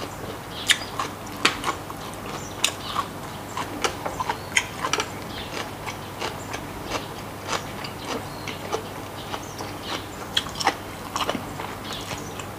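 Close-miked chewing: irregular wet mouth clicks and small crunches, several a second.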